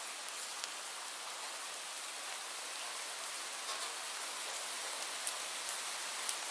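Steady rain falling, an even hiss with scattered sharp drop ticks on a nearby surface.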